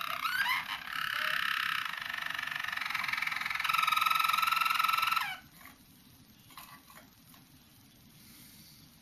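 Young roller canary singing its rolling song: a series of trilled passages, each held for a second or so before shifting pitch. The song stops abruptly a little past halfway, leaving only faint small clicks.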